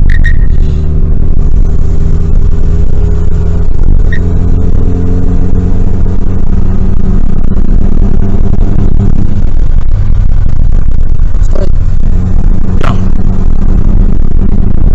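Car engine and road noise heard from inside a moving vehicle, the engine note drifting up and down with the throttle. There are a few brief knocks, near the start, about four seconds in, and twice near the end.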